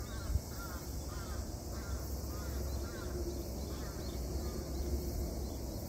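A bird calling in a repeated series of short chirps, about two a second, that dies away about four seconds in, over a low wind rumble on the microphone.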